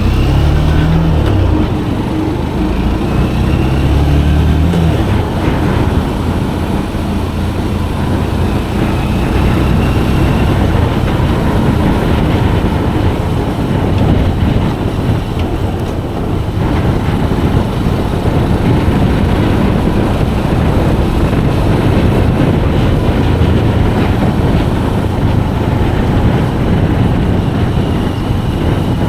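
Motorcycle ride heard from on the bike: the engine's pitch climbs in steps through gear changes over the first five seconds or so, then gives way to steady wind and road rumble at cruising speed.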